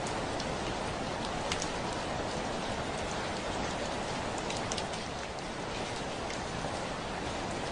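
Heavy rain falling on a window: a steady hiss with scattered sharper taps of single drops striking the glass.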